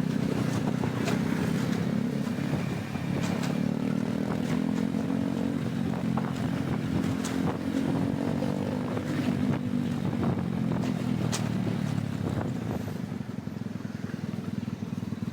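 Scooter engine running while riding through traffic, its hum rising and falling gently with speed, with wind buffeting the microphone and scattered short knocks. The engine eases off a little near the end.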